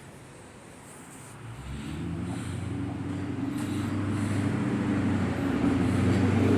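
A motor vehicle's engine approaching, a low drone that starts about a second and a half in and grows steadily louder.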